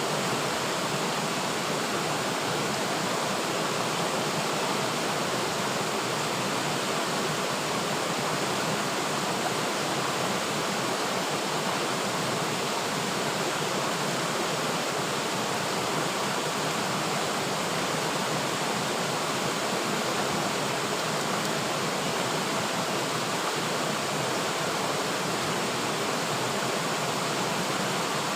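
River water flowing over rocks, a steady even rushing with no change in level.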